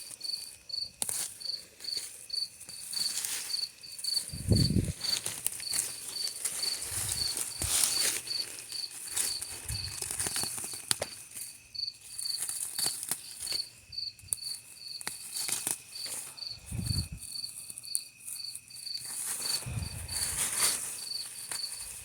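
A cricket chirping steadily at about two chirps a second, with intermittent rustling and scraping from yard work and a few low thumps.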